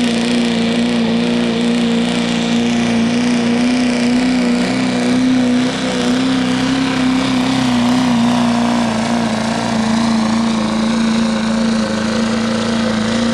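Turbocharged diesel pulling truck running at full throttle under load as it drags the sled, its engine note held at a steady high pitch throughout, with the turbo spooled up.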